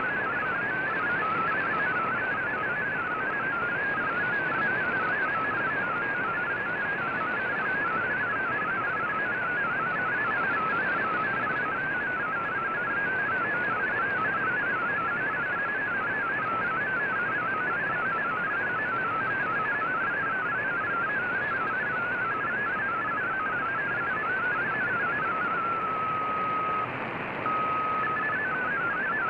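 MFSK digital-mode data signal received on a shortwave radio: a warbling run of quickly hopping tones over steady band hiss. Near the end it holds one steady tone with a short break before the hopping starts again.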